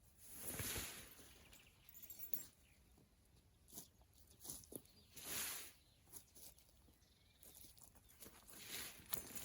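Three soft rustling swishes a few seconds apart, with a few light clicks and knocks in between.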